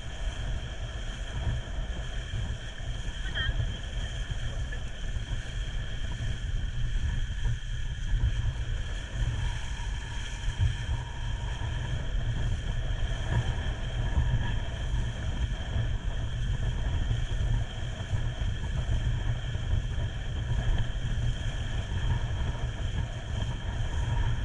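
Boat engine running steadily with a low rumble and a constant whine, wind buffeting the microphone.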